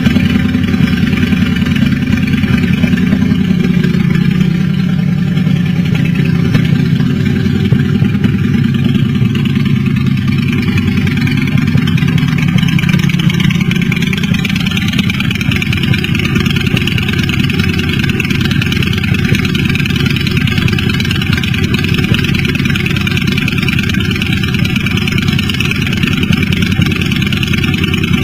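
Custom motorcycle engine running steadily and loudly, its low exhaust rumble holding about the same level throughout.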